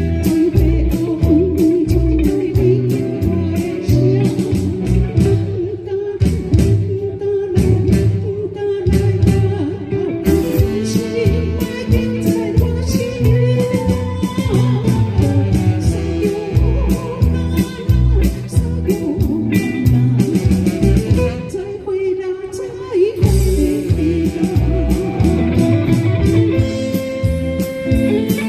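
A band playing a song: a sung melody over guitar, bass and a steady drum beat.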